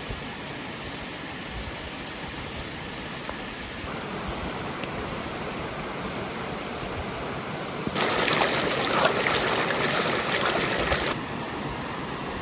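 Sausages sizzling in hot fat over a campfire: a steady hiss that grows louder, with dense fine crackling, for about three seconds near the end.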